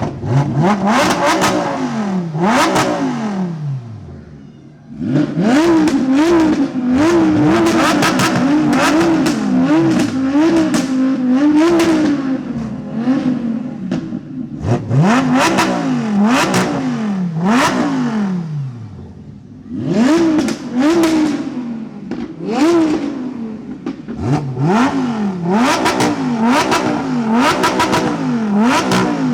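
A car engine is revved hard over and over while standing, the pitch climbing and dropping about once a second. There are two long revs first, then a fast run of blips from about five to twelve seconds in, then further sets of revs with brief pauses between them.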